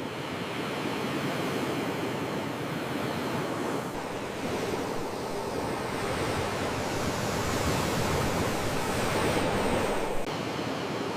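Sea waves washing in, a steady rush that swells louder for several seconds and then falls away suddenly about ten seconds in.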